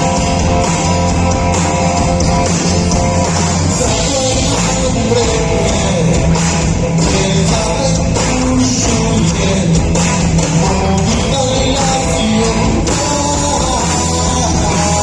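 Live rock music from a band, with guitar and a singing voice, playing steadily and loud.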